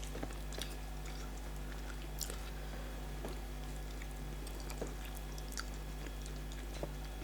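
Scattered soft, wet mouth clicks and smacks of people chewing starch fufu with bitter leaf soup, over a steady low hum.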